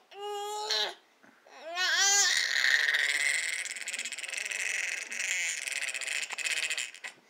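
A baby screeching: a short high-pitched held note, then a wavering call, then one long harsh screech lasting about five seconds.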